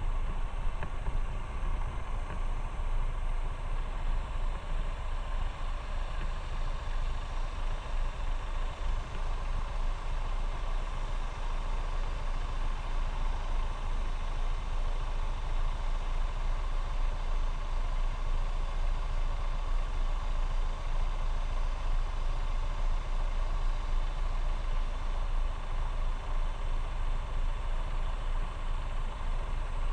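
Motorcycle engine running steadily on the move, over a constant low rumble.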